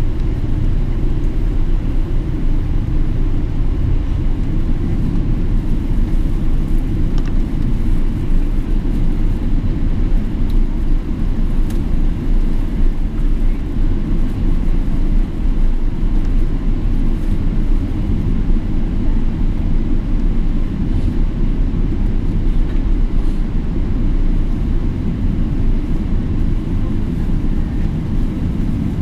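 Boeing 777-300ER with GE90 engines: a steady, loud low rumble that holds even throughout.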